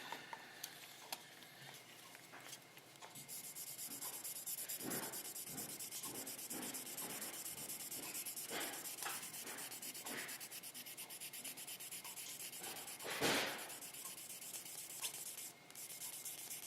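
Wet sanding with 12,000-grit sandpaper on the painted body of a scale-model car: faint, rapid, light back-and-forth rubbing strokes, the last and finest polishing stage. The rubbing starts a few seconds in, with one louder stroke near the end.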